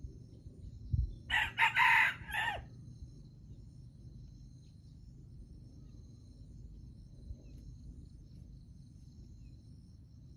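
A junglefowl rooster crows once, a short crow of about a second, a little over a second in. Insects chirr faintly and steadily throughout.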